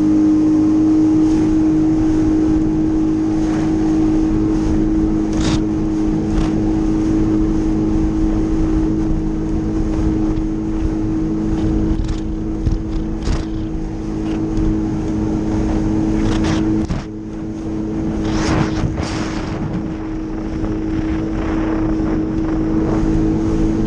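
Jet ski engine running flat out at a steady, high-pitched note while skimming across the water, with short hissing bursts now and then. The engine note dips briefly about two-thirds of the way through.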